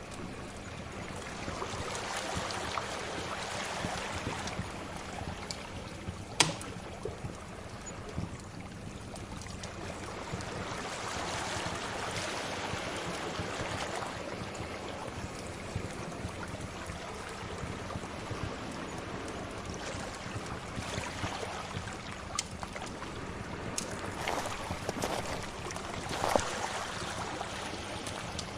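Sea waves washing in and out in slow swells, with now and then a sharp pop from a crackling wood fire.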